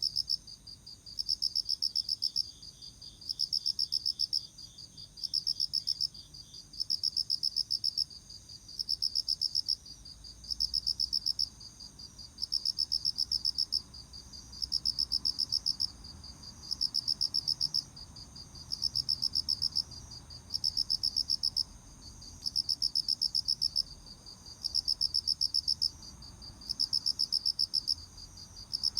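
An autumn cricket singing: rapid pulsed chirps grouped into trills about a second long, repeating steadily with brief gaps. A second, fainter insect with a lower pulsed song joins in for the first few seconds.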